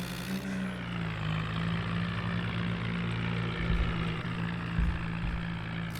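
Tractor diesel engine running steadily, with a couple of deeper low pulses partway through.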